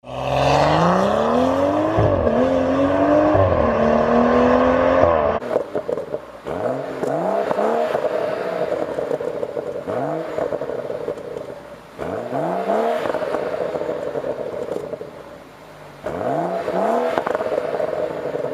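BMW M135i turbocharged straight-six engine and exhaust, running with revs climbing, dipping and climbing again. Then, over a steady idle drone, it is given a series of quick throttle blips a second or two apart, with crackle from the exhaust.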